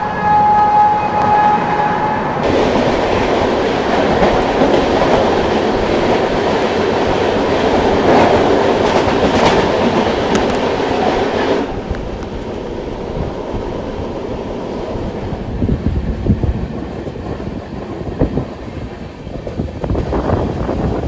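A train horn sounds a steady note for about two seconds at the start. Then comes a loud rushing clatter as a passenger train passes close alongside on the next track, and it cuts off suddenly about twelve seconds in. After that the coach's own wheels rumble on the rails, with clicks over the rail joints near the end.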